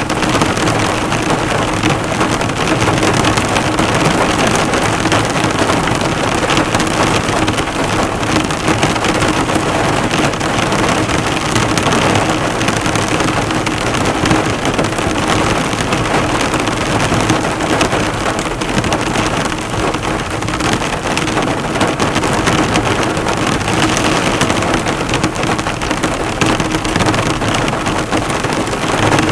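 Heavy rain drumming on a car, the drops bouncing off the hood in a dense, steady patter.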